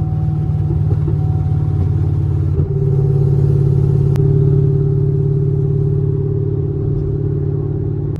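Camaro SS V8 without mufflers, droning steadily at low rpm while cruising. The engine note steps up slightly in pitch and loudness about two and a half seconds in, then holds steady.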